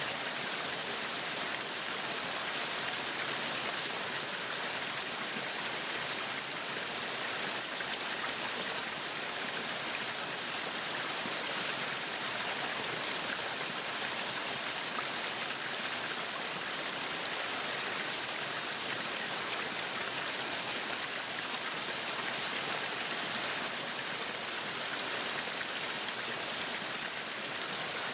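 Meat sizzling on a yakiniku grill: a steady, even hiss that does not change.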